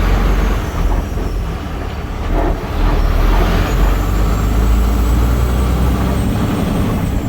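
Peterbilt 389 semi truck's diesel engine running steadily as the rig gets under way, with a thin high whine rising slowly from about three seconds in.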